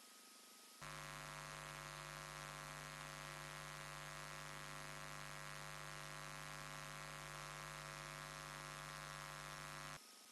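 Steady electrical hum with many overtones that switches on abruptly about a second in and cuts off abruptly near the end: interference on the wildlife camera's audio feed, a fault in the camera's sound.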